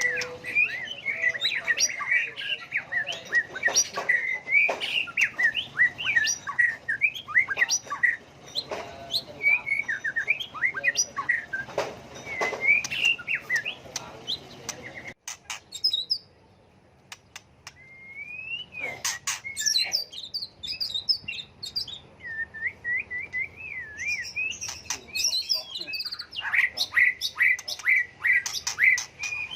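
White-rumped shama singing: fast, varied whistled phrases that keep changing from one to the next. It breaks off abruptly about halfway, falls nearly quiet for a couple of seconds, then starts again with more phrases and a run of quick repeated notes near the end.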